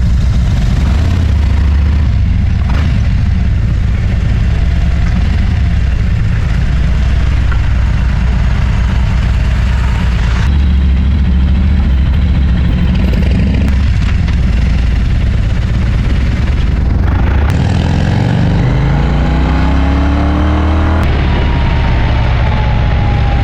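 Motorcycle engine running at a steady low throb, then pulling away: a little over two-thirds of the way in the pitch rises as it accelerates, drops at a gear change, and rises again.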